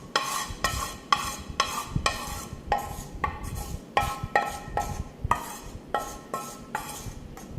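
A metal spoon repeatedly clinking against a ringing dish, about two strikes a second, each strike leaving a short ring.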